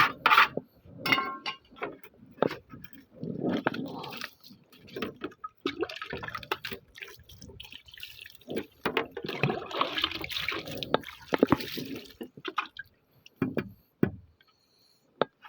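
Water splashing and pouring in irregular bursts while a spotted dove is bathed, with a few sharp clicks near the end.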